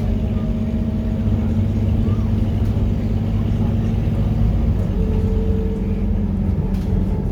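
Scania K230UB bus's diesel engine, an inline five-cylinder, running steadily under way. Its note drops a little about two-thirds of the way through.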